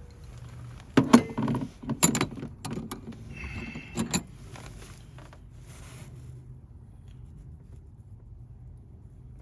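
Spark plug, socket and extension being handled: sharp metallic clicks and rattles, mostly in pairs, in the first four seconds, with a brief ringing clink in between, then quieter handling.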